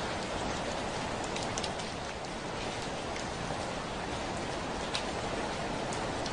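Heavy rain falling steadily on a window: a constant hiss of rain with scattered sharp ticks of single drops hitting the glass.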